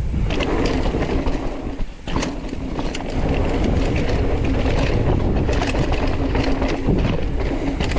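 Mountain bike rolling fast down a dirt singletrack trail: tyres rumbling over the ground, the bike rattling with many sharp clicks, and wind buffeting the microphone, with a brief lull about two seconds in.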